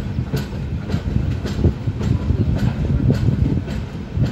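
Udyan Express coaches rolling on the track: a steady low rumble with repeated wheel clacks over the rail joints, heard from an open coach door.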